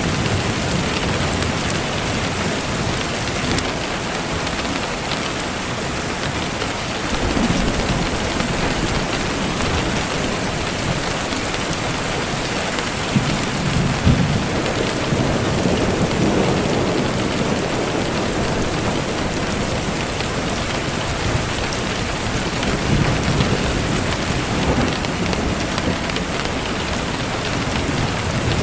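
Steady, heavy rain pouring down, with low rolls of thunder swelling up several times, and a couple of sharp cracks about halfway through.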